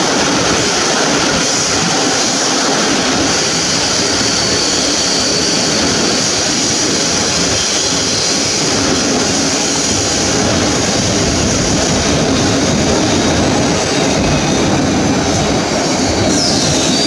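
Passenger train running through the Warsaw cross-city rail tunnel past an underground station, heard from a coach window: a loud, steady rumble of wheels on rails. A faint, thin, high wheel squeal runs through the first several seconds.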